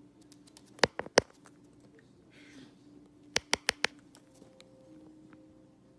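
Sharp clicks and taps from a pet parrot moving about: two about a second in, then four quick ones in a row a little past the three-second mark, with fainter ticks in between.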